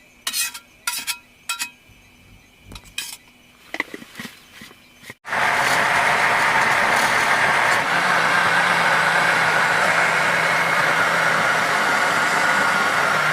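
A few light clinks and knocks of cooking utensils and pots being handled. About five seconds in, this gives way abruptly to a loud, steady outdoor noise that runs on without a break.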